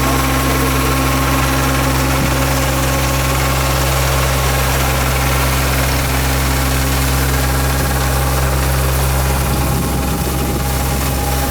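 Yanmar combine harvester's diesel engine running steadily, a constant low hum.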